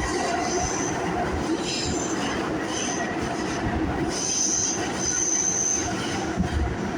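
Moving train rumbling along, its wheels squealing high-pitched several times, each squeal lasting about half a second to a second.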